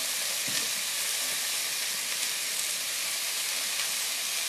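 Steamed flat beans (sim) frying in hot oil in a karai: a steady, high sizzling hiss.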